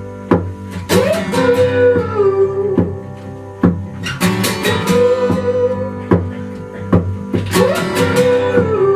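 Acoustic band, with no drums, playing an instrumental break. Acoustic guitars strum in a steady rhythm under a held lead melody line that slides up and down in pitch.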